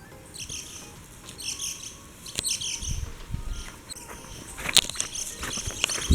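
Small birds chirping in short repeated phrases, with a few sharp clicks and knocks in the second half.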